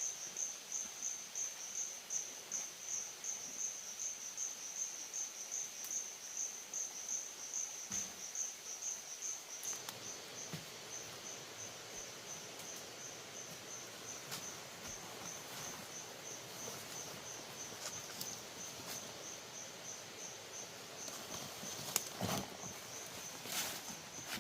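Cricket chirping in a high, evenly pulsed trill that grows fainter after about ten seconds, with a few light clicks and a brief rustle near the end.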